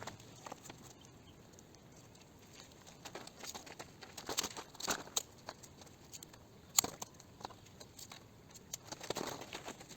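Masking tape being worked by hand: short pulls of tape off the roll and tearing, with crinkling and a sharp click about seven seconds in.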